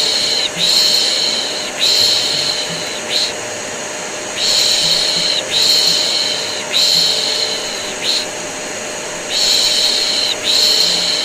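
Vacuum cleaner running steadily under a person's repeated 'shh' shushing. The shushes come in groups of three long ones and a short one, about every five seconds: the shushing lull used to soothe a colicky baby.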